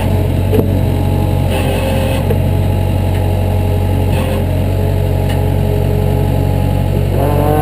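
An engine running steadily, with a deep constant hum and pitch that shifts slightly.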